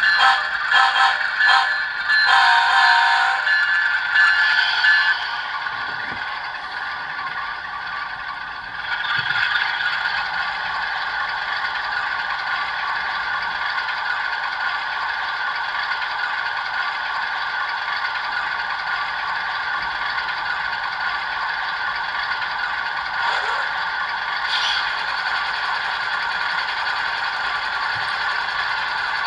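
Digital locomotive sound from an HO-scale ES44AC/AH model's ESU LokSound decoder, played through its small speaker. First come rapidly pulsing chime-like tones that stop about three seconds in. From about nine seconds on, the diesel prime mover sound runs steadily.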